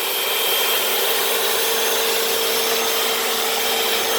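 Hoover FloorMate wet hard-floor cleaner running on concrete: its suction motor gives a steady whine while the spinning brushes scrub the floor.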